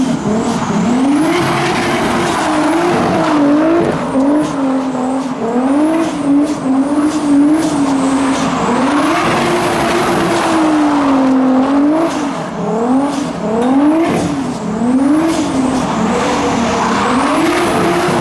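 A car drifting: its engine revs up and down over and over, held high for stretches, while the tyres squeal as they slide.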